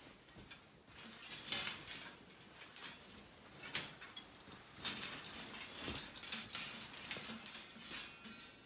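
Irregular handling noises: brief rustles, light clinks and a few sharp clicks, the sharpest about four and five seconds in.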